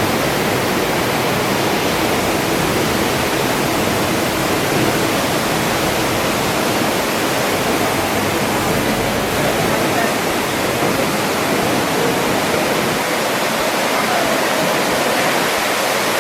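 Steady rushing of running water in the washing tanks of a banana packing plant, an even, unbroken noise.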